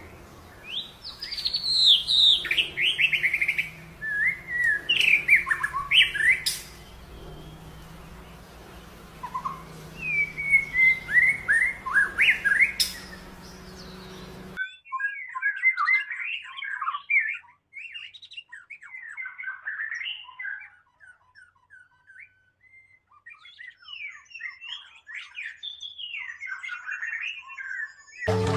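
A murai (Copsychus songbird, magpie-robin type) singing: loud, clear whistled phrases that slide down in pitch, in bursts with short pauses, over a low steady hum. About halfway through the sound cuts abruptly to a quieter, faster run of twittering, chattering song without the hum.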